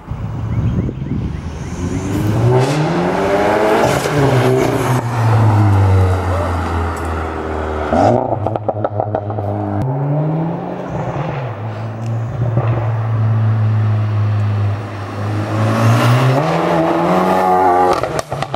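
VW Golf Mk7's turbocharged 2.0-litre four-cylinder running through an Armytrix valvetronic exhaust under hard acceleration. The engine note climbs in pitch and drops back at each gear change, several times over, with a steadier stretch in the middle.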